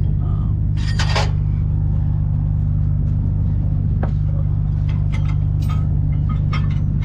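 Peterbilt 379 semi truck's diesel engine idling steadily, with a short sharp noise about a second in and several light clicks and knocks in the second half as trailer hardware is handled.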